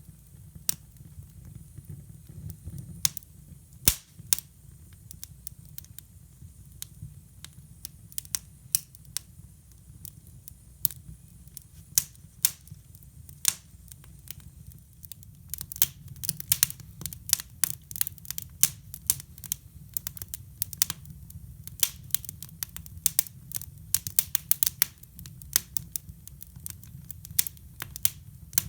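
Wood fire crackling in a hybrid fireplace stove: irregular sharp pops and snaps, scattered at first and coming much thicker about halfway through, over a steady low rumble.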